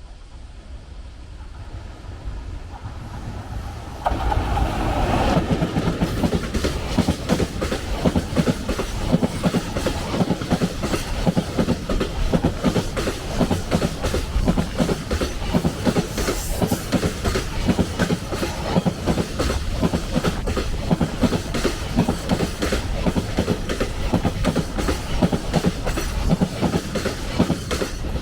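A freight train hauled by a JNR Class EF65 electric locomotive passing close by. It builds as it approaches and grows suddenly louder about four seconds in. The wheels then clatter over the rail joints in a steady clickety-clack.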